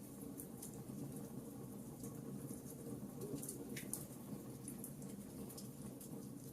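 Wood fire crackling in a fireplace: scattered sharp pops and snaps over a low steady rush of the flames, one pop standing out a little under four seconds in.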